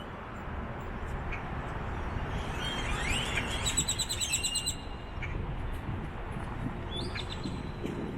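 Flock of roosting birds calling loudly from street trees: a burst of rising whistles and a quick run of repeated high notes about three to four and a half seconds in, another call about seven seconds in, over a steady low rumble.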